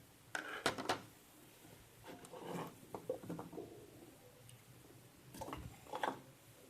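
Faint handling noises of small objects on a workbench: a few light clicks and knocks in three short clusters, near the start, in the middle and near the end.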